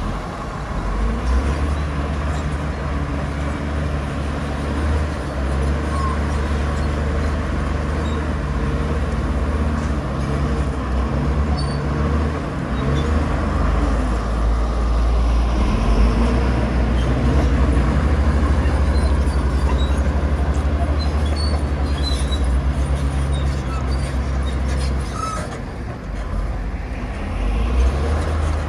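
Komatsu bulldozer's diesel engine running steadily under load as it pushes soil, easing off briefly near the end.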